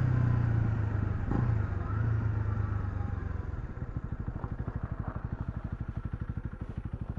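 Honda CL250's single-cylinder engine running steadily, then easing off about three and a half seconds in and settling into an even, rapid idle putter.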